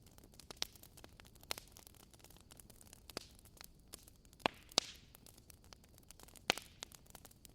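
Wood fire crackling: irregular sharp pops and snaps over a low steady hiss, with the loudest pops about four and a half seconds in and again near the end.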